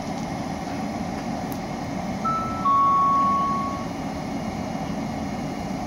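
Double-deck electric multiple unit arriving slowly at a platform, a steady rumble of wheels and motors. About two seconds in it sounds a short two-note horn, a higher note followed by an overlapping lower one, lasting about a second and a half and louder than the rumble.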